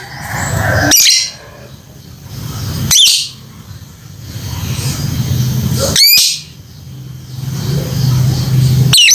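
Lovebird calling to a companion: four short, high, sharp contact calls a few seconds apart, over a low steady hum.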